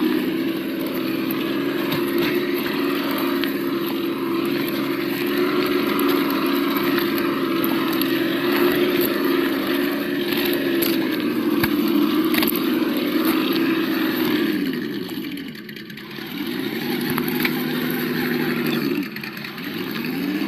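Sound module of a 1:8 Absima Yucatan RC crawler playing a simulated engine note through its small speaker, running at a steady pitch. About fifteen seconds in, the revs drop away and climb back. Near the end they dip and rise again.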